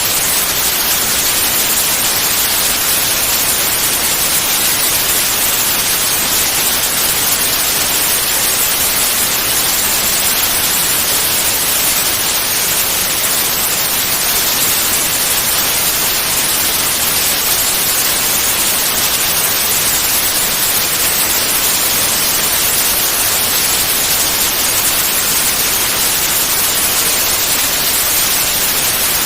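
Continuous synthetic white noise: an even, steady hiss, strongest in the high frequencies, that never changes.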